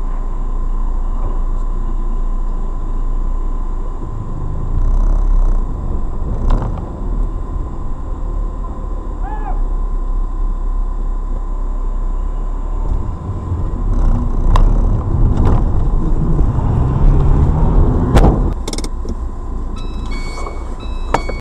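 Car driving noise picked up by a dashcam: a steady low rumble with a thin steady whine, broken by several sharp knocks and a few short beeps near the end.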